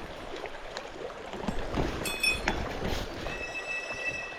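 Small mountain stream running, with a few soft knocks and splashes of handling at the water's edge. About three seconds in, a thin steady high tone starts and holds.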